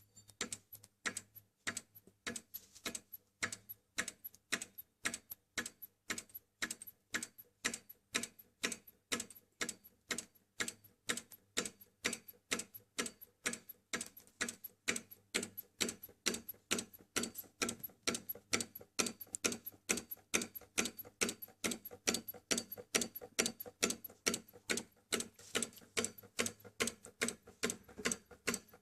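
Solenoid engine with a flywheel running, its solenoid plunger clicking in a steady, even rhythm of a few sharp clicks a second.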